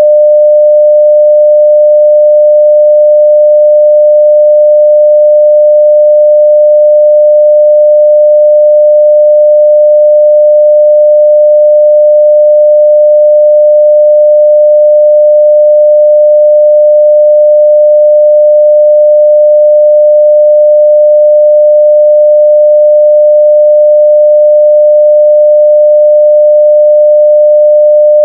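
A 600 Hz sine-wave test tone at full level, one pure unchanging pitch held without a break.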